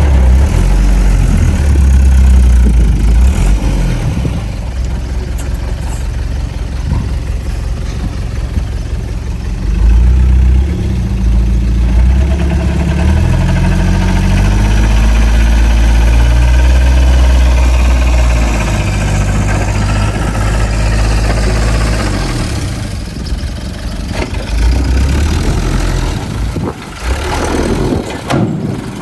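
Heavy diesel engine of earthmoving equipment running under varying load, a loud low rumble that rises and falls in pitch, easing off and turning uneven in the last few seconds.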